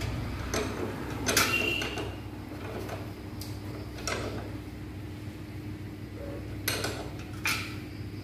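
Scattered metallic clicks and short scrapes of hand tools on a motorcycle's rear shock absorber mounting, about half a dozen spread through, as the shock's bolts are fitted and tightened.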